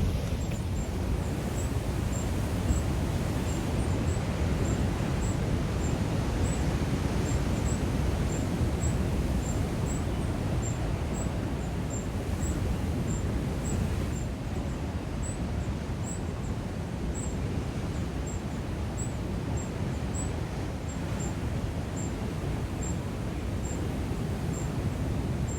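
Steady low rumble of wind and ocean swell on a coastline. Over it, a faint high chirp repeats about twice a second.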